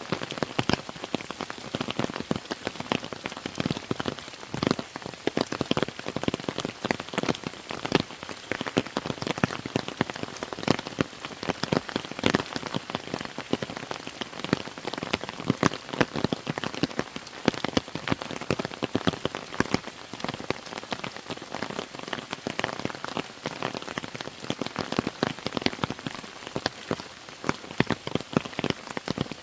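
Steady rain, a dense stream of individual drops striking close surfaces over a continuous hiss.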